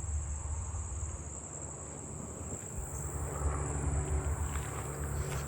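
Common meadow katydids calling: a steady, high-pitched insect buzz, over a low rumble.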